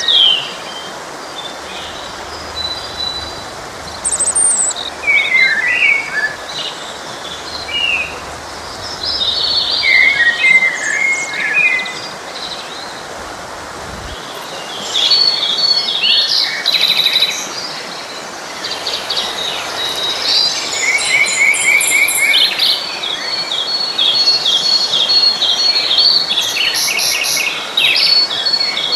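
Several songbirds singing and chirping, in short whistled phrases and rapid trills, over the steady rush of a forest stream. The song is sparse at first and becomes nearly continuous about halfway through.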